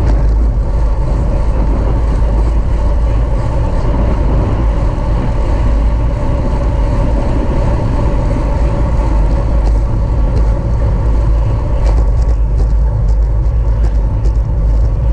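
Wind rushing over the microphone of a camera on a bicycle racing at speed, a steady, loud rumble, with tyre and drivetrain noise beneath it. Faint rapid ticks come through near the end.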